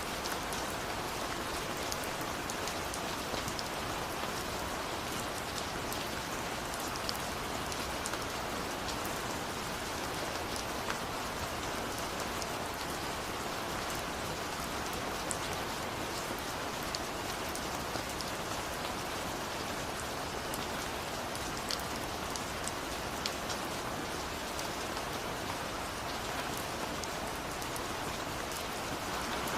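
Steady rain falling, an even hiss with scattered individual drops ticking sharply on top.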